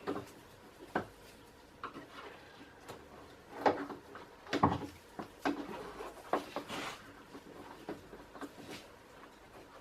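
Scattered light clicks and knocks with some rubbing as parts and tools are handled, the sharpest knocks about four seconds in.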